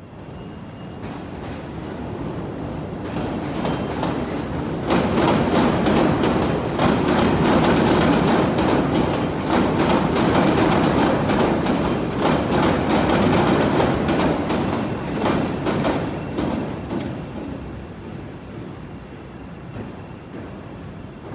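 CTA 'L' elevated train passing over the Tower 18 interlocking. It grows louder over the first few seconds and then, for about ten seconds, its wheels clatter rapidly over the junction's switches and crossings before it fades away.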